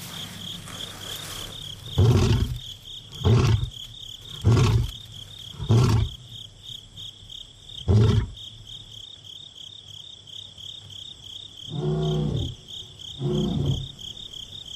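Male lion roaring: a series of five short, loud grunting roars about a second or so apart, then two softer, longer moaning calls near the end. Steady cricket chirping runs underneath.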